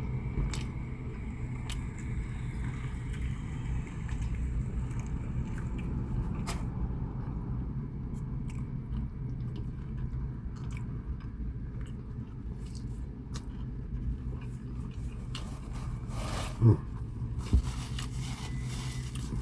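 A person chewing and biting into food, with many small wet mouth clicks over a steady low hum. Two short, loud thumps come near the end.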